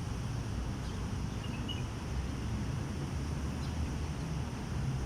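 Small birds chirping faintly a few times over a steady low rumble of outdoor background noise.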